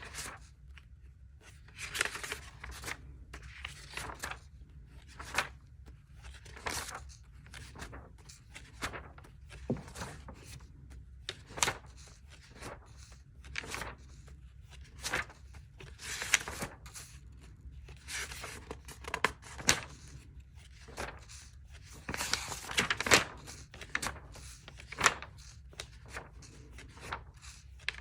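Paper pages of a notebook being turned and handled: irregular short rustles and swishes every second or two, some ending in a sharper flick.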